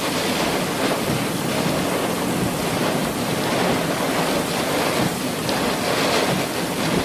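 Severe thunderstorm wind blowing across the microphone: a steady, loud rushing noise with no distinct events.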